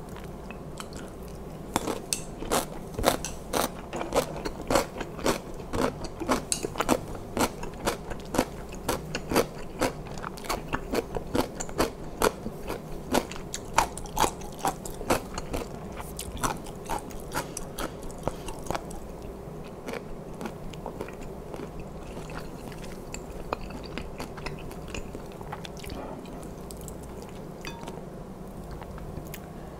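Close-miked crunchy chewing of kimchi: sharp, wet crunches about twice a second for the first two-thirds, then softer, quieter chewing.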